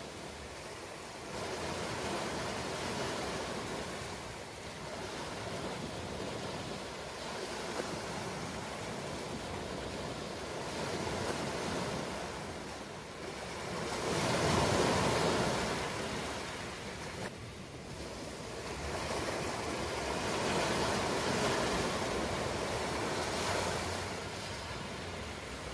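Ocean waves breaking and washing in, a steady rush that swells and ebbs, with the biggest wave about fifteen seconds in.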